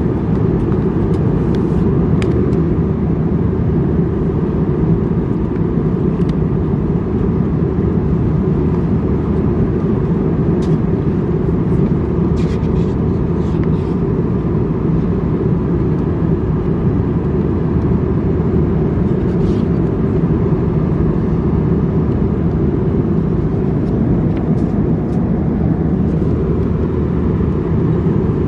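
Steady in-flight cabin noise of an Airbus A321-200 in economy: an even, low roar of engines and airflow, with a few faint clicks.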